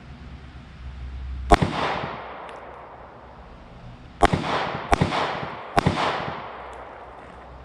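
Four 9mm pistol shots from a Glock 43X: one shot, then about three seconds later three more in quicker succession. Each report trails off in echo.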